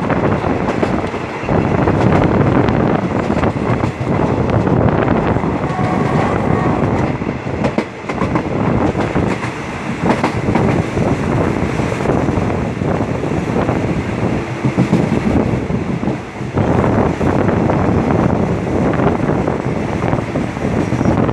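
Thai rapid passenger train's wheels rumbling on the rails and clattering over rail joints and points, heard at an open carriage window as the train runs into a station.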